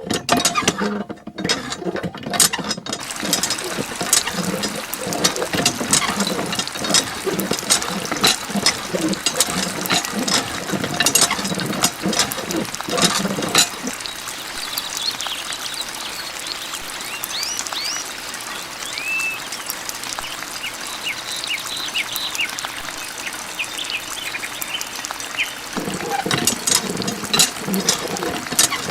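Water pouring and trickling, with many small clicks and short high plinks. The deeper part of the sound drops away for about twelve seconds in the middle.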